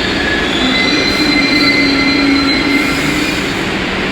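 New York City subway 1 train, R62A cars, moving along the platform track with a steady rumble and several high, thin wheel squeals that are strongest about a second or two in.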